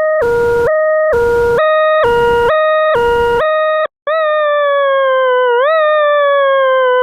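Two-tone electronic siren alternating between a high and a low note about twice a second. After a brief break it becomes a long, slowly falling wail with a quick upward swoop about twice.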